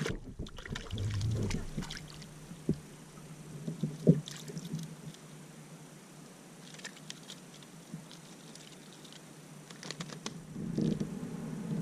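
Scattered clicks and knocks of fishing gear being handled on a plastic fishing kayak, with light water sounds; a sharp knock stands out about four seconds in.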